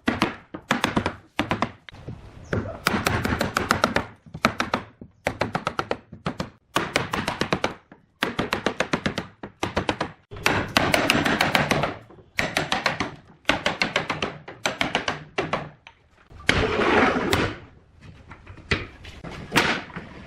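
Wood being struck in rapid bursts of sharp taps, each burst a second or two long with short pauses between, as in hand work on a wooden joint.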